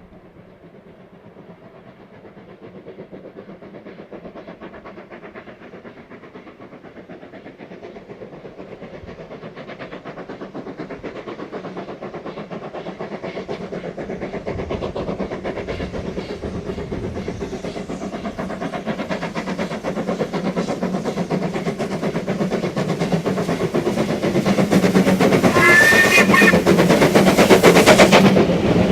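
Steam locomotive working a train, drawing steadily closer and louder, with fast beats and rail clatter, and passing close near the end. A brief high-pitched sound, like a whistle or a wheel squeal, rises over it shortly before the end.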